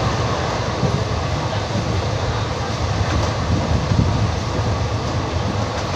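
Indian Railways ICF passenger coach running at speed: a steady rumble of wheels on rails, with a few sharp rail-joint clacks.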